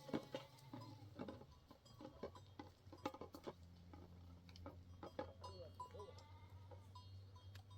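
Faint bleating from a flock of small livestock, a few short calls about two thirds of the way in, among scattered light clicks and knocks.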